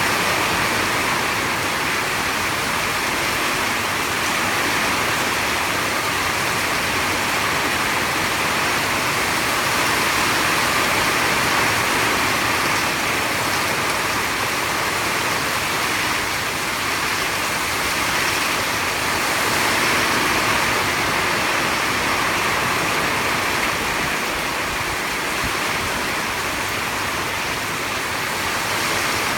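Heavy storm rain pouring down: a dense, even hiss with no breaks.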